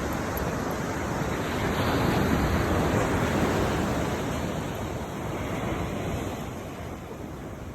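Rushing wind and water noise, swelling about two seconds in and easing off toward the end.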